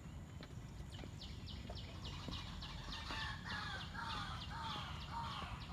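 A bird calling in a rapid, even series of short notes, about three a second, from about a second in. From about three seconds in, a louder series of short falling notes joins it lower in pitch, over a steady low background rumble.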